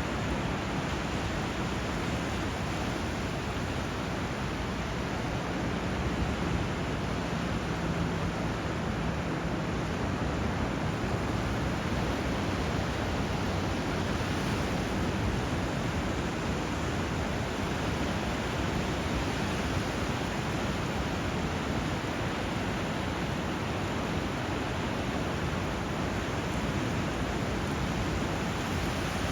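Flowing water rushing steadily, an even hiss that holds the same level throughout without the swell and fall of breaking waves.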